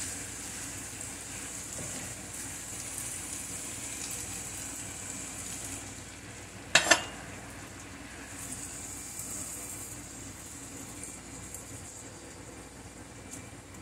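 Noodles and vegetables sizzling in a hot nonstick skillet as they are tossed and stirred with a utensil. A sharp double clack about seven seconds in is the loudest sound.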